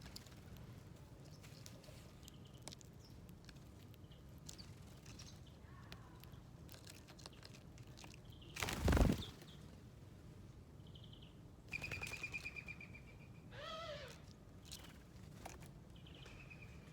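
Small wild birds at a feeder: scattered short chirps and clicks, a loud brief flutter of wings about nine seconds in, then a quick trilled call and a short wavering call a few seconds later.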